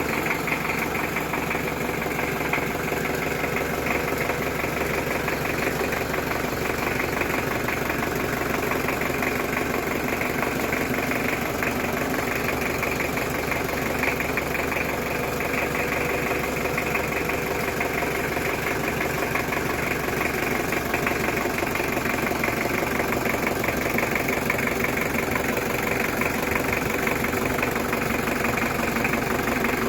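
Mitsubishi Kuda's 4D56 2.5-litre four-cylinder diesel engine idling steadily.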